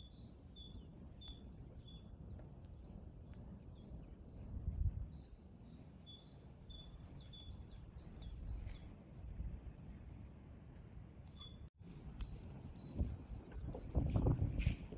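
Small songbirds chirping in quick runs of short high notes, with pauses between the runs, over a faint low rumble. The sound drops out for an instant about two-thirds of the way through.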